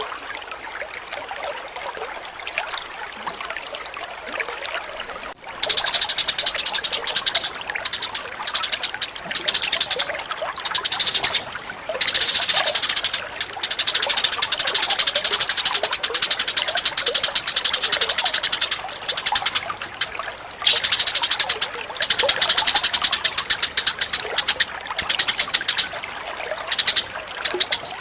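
Trickling water. About five seconds in, a loud, rapid, high-pitched bird chatter breaks in and runs on in long bursts with short breaks over the water.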